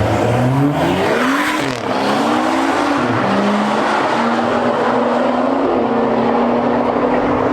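Car engine revving up for about a second and a half, dipping, then held at steady high revs while the tyres squeal.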